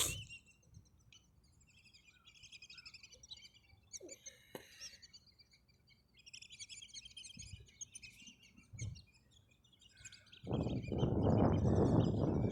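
Small birds chirping and twittering in short, repeated high phrases. A loud rushing noise comes in about ten seconds in and stays to the end.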